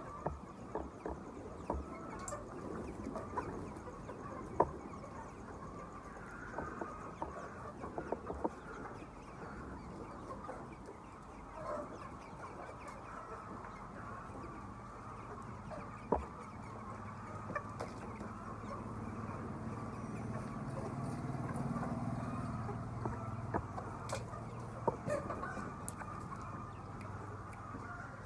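A flock of chickens clucking continuously in a poultry house, a dense overlapping chatter with scattered sharp clicks. A low hum rises and swells in the second half, then fades toward the end.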